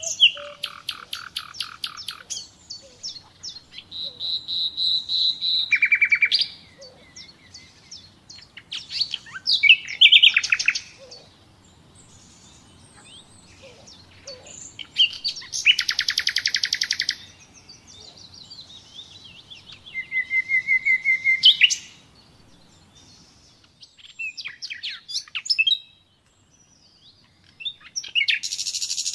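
Common nightingale singing: a run of separate phrases, each a second or two of fast repeated notes or trills, several swelling louder, with short pauses between them.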